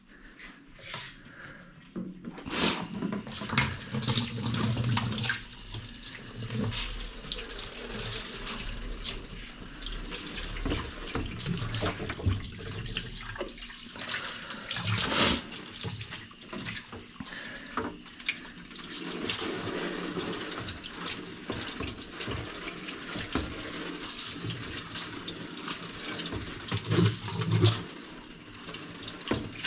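Water running and splashing, with scattered knocks and clatter.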